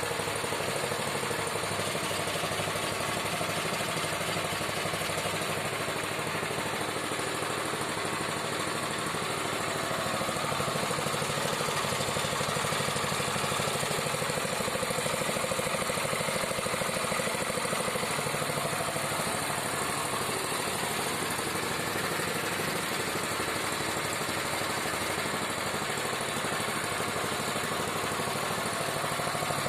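Small petrol engine of a cassava slicing machine running steadily, a little louder from about ten seconds in.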